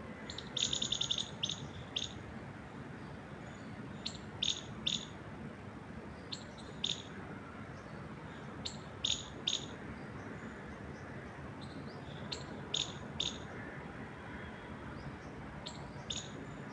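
A small songbird chirping in short, high notes, usually in quick groups of two or three, repeating every few seconds. A steady hiss of wind moving through trees lies underneath.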